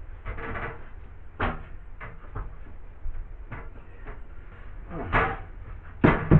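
Irregular knocks and clunks of hard objects being handled and set down, the loudest near the end.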